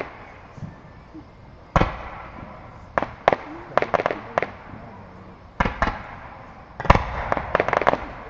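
Aerial fireworks display: shell bursts going off one after another, single bangs a second or so apart, then a rapid cluster of several bangs near the end, the loudest of them starting that cluster.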